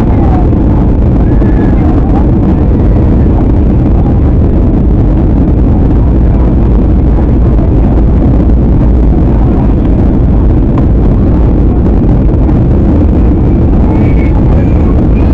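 Loud, steady rumble of an airliner cabin in flight: jet engine and airflow noise heard from inside the cabin, deep and unbroken.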